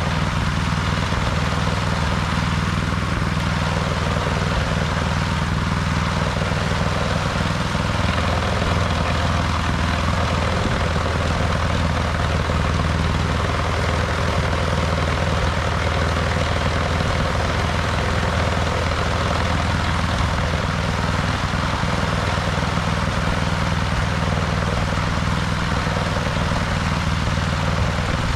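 Snowblower engine running steadily, with no let-up or change in speed.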